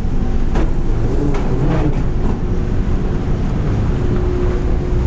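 Loud steady low rumble of moving air with wind buffeting the microphone, under faint background hubbub and a few light clicks near the start.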